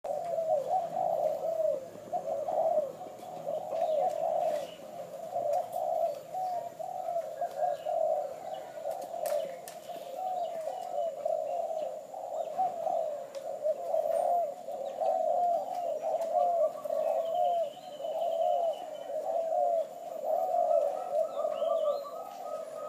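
Hybrid spotted dove (terkukur kacuk) cooing continuously in repeated phrases of short, arched notes. A few faint higher chirps from another small bird come in the second half.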